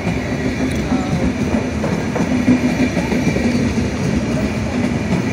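Double-deck Stadler KISS electric multiple unit rolling past along the platform: steady rumble of wheels on rail with a low, even hum from the running gear.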